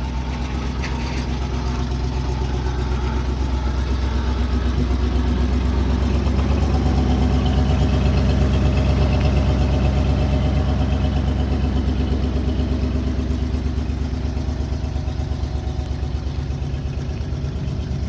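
1976 International Loadstar 1600 grain truck's gasoline engine idling with an even pulsing beat, growing somewhat louder toward the middle and easing off again.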